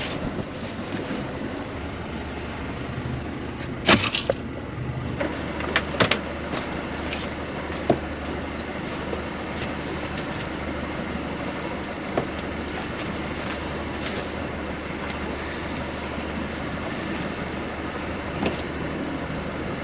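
Small fishing boat's engine running with a steady low hum, with a few sharp knocks and clatters on board, the loudest about four seconds in.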